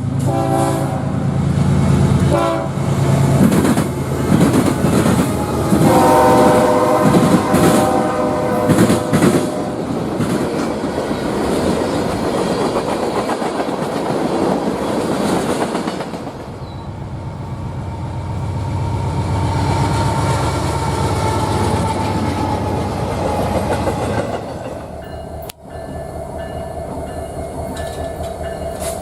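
Train horn sounding several long multi-note blasts as a train passes, over the rumble and clatter of its cars on the rails. About 25 seconds in there is a sudden cut to another train, with a steadier horn chord.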